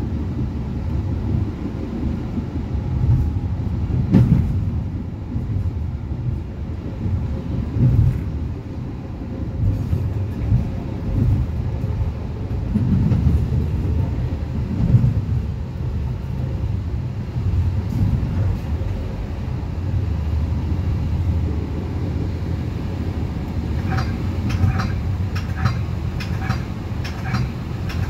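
Metra commuter train rolling at speed, heard from inside the leading cab car: a steady low rumble of wheels on rail with occasional louder thumps as it runs over the switches. A run of short clicks comes near the end.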